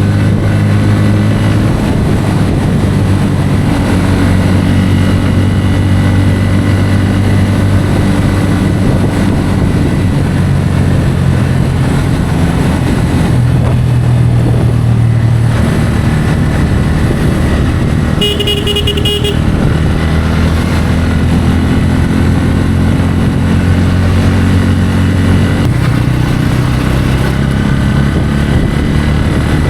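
Bajaj Pulsar N160's single-cylinder engine running steadily on the highway, its pitch shifting a few times as the throttle or gear changes. A vehicle horn sounds once for about a second, a little past halfway.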